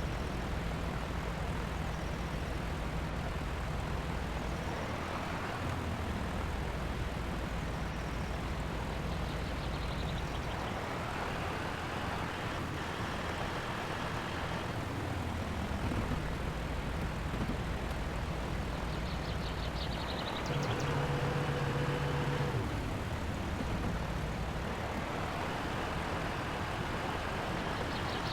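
Heavy truck engines running under load, the pitch rising and falling several times as they rev through the crossing. About twenty seconds in, a louder steady tone sounds for about two seconds.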